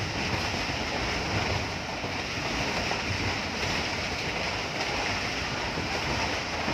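Steady rushing noise of a moving passenger train heard at a coach window: wind rush mixed with wheel-on-rail rumble.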